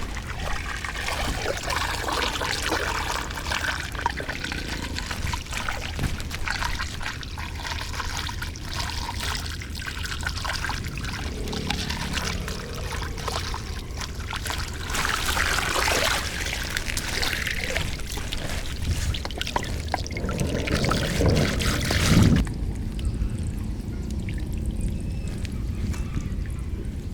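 Flood water pouring and trickling through a drain grate into a culvert, with scattered small knocks. About three-quarters of the way through, the rushing sound abruptly turns quieter and duller.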